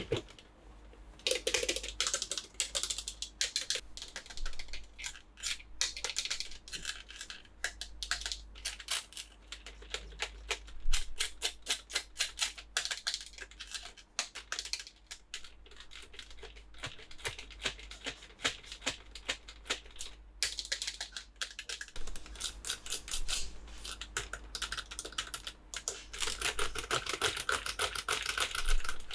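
Rapid, irregular clicking and crinkling of plastic toy packaging being handled and opened.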